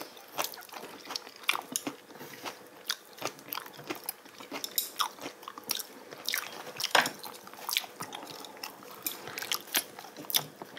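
Close-miked eating of braised oxtail: irregular wet mouth clicks, smacks and chewing as meat and chewy gristle are bitten off the bone, with the loudest click about seven seconds in.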